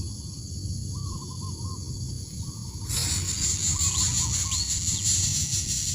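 Coucal hooting: short runs of quick, evenly spaced hoots, twice, over a steady low rumble. A hiss rises suddenly about halfway through.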